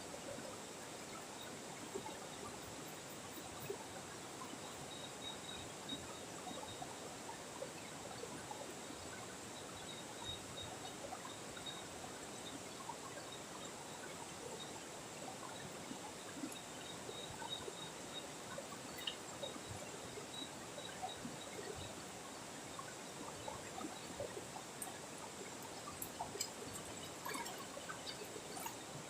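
River water flowing steadily, with many small scattered drips and ticks over it, and a faint high steady tone above.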